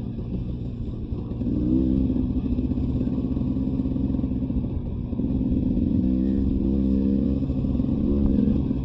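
Two-stroke Beta 300 RR dirt bike engine running under load on a trail, its revs rising and getting louder about a second and a half in. It eases off briefly about halfway through, picks up again, and drops back near the end.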